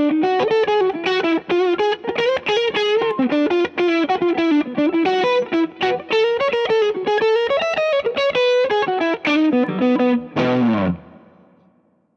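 Distorted electric guitar through a Fractal Audio FM9 amp-modeler preset, playing fast single-note lines. About ten seconds in, it ends on a last note that slides down in pitch and fades away.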